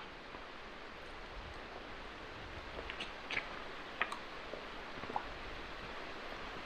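Steady rushing of the stream down a rocky ravine, with a few sharp clicks and scrapes about three to five seconds in.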